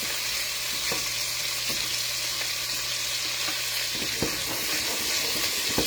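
Lamb chops sizzling steadily in a frying pan with garlic butter on them, with a few light knocks of a utensil against the pan. A low steady hum underneath stops about four seconds in.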